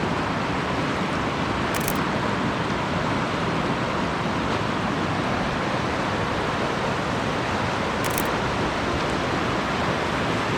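Rushing water, a steady, even roar of falling and flowing water.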